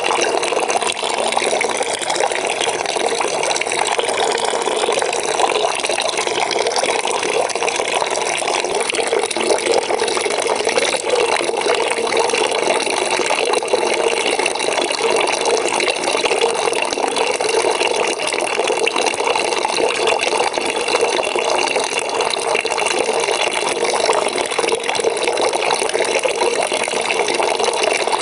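Water pouring steadily into a bucket as it fills, an even splashing rush with no break.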